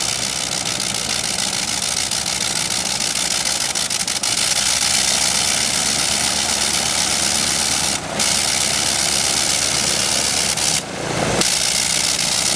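Radial aircraft engine running steadily, with two brief dips in the sound about eight and eleven seconds in.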